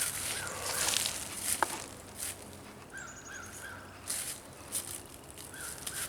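Footsteps crunching through dry leaf litter on a woodland floor, with a sharp snap about a second and a half in. A bird calls in the background in short rising-and-falling notes, three in a quick run near the middle.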